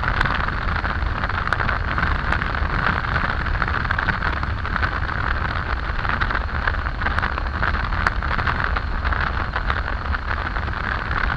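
Steady wind rush and road noise of a Triumph Tiger 800 motorcycle riding at speed, heard from the bike's camera.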